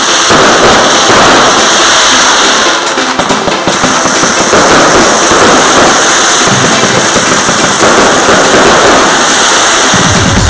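Fireworks display: a loud, dense, continuous crackle of bursting fireworks, with music playing along and a heavy bass beat coming in near the end.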